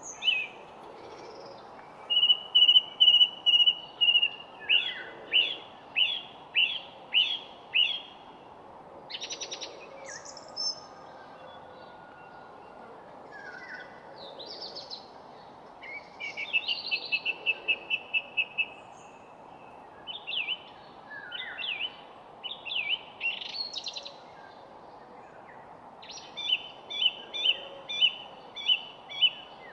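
Songbirds singing in repeated phrases: series of short, clear notes at about two a second, with trills in between, over a steady background hiss.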